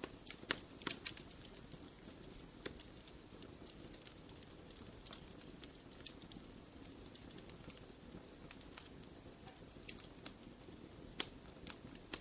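Wood fire burning in a fireplace, crackling with irregular sharp pops over a low steady rush, with a few louder pops about a second in and near the end.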